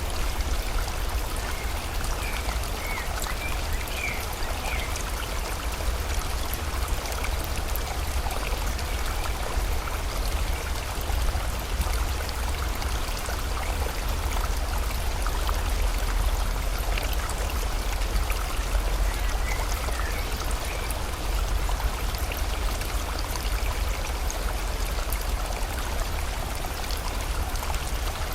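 A stream or river flowing steadily, with rain falling. A few faint, short bird chirps come about two to five seconds in and again a little before the twenty-second mark.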